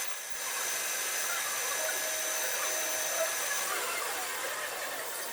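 Metalworking machine tool running steadily, machining an aluminium cylinder head, with a faint steady high whine over the cutting noise.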